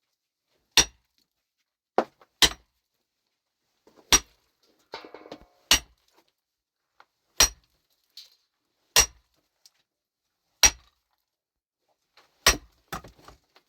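A metal tool striking rock in steady, regular blows, one about every one and a half seconds, each a sharp clink with a short metallic ring. A brief rattle comes about five seconds in.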